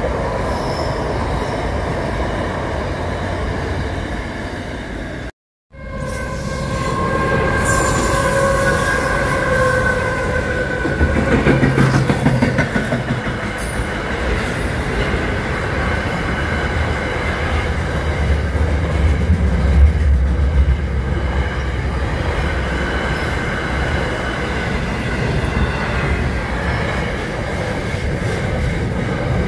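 Long double-stacked container freight trains passing close by, wheels rumbling and clattering steadily over the rails. The sound cuts out briefly about five seconds in. After that, a steady high-pitched tone runs over the rumble for a few seconds.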